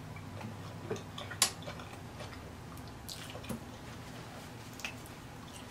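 A person chewing a mouthful of taco, with soft wet mouth clicks and lip smacks scattered through it and one sharper click about a second and a half in.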